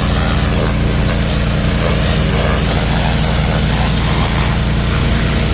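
Abrasive blasting rig running: a loud, even hiss of the blast stream over the steady drone of an engine-driven air compressor.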